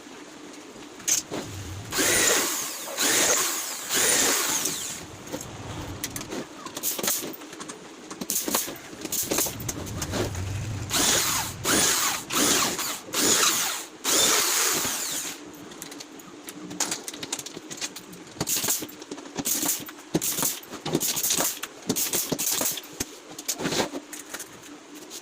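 Handheld power drill running in repeated bursts: a few longer runs of a second or two, then many short bursts in quick succession.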